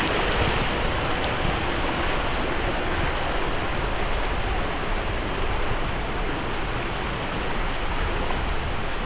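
Steady rushing noise of moving water with wind buffeting the microphone, even and unbroken.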